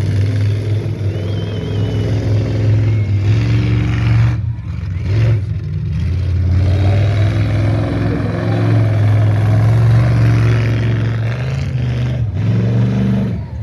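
Tough-truck competition truck's engine revving hard through an obstacle-course run, its pitch rising and falling as the driver works the throttle.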